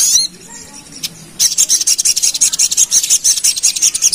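Sogon (little spiderhunter) singing its rapid chattering 'ngerap' song: a short burst of high chirps at the start, then from about a second and a half in a fast, unbroken run of high, rasping notes.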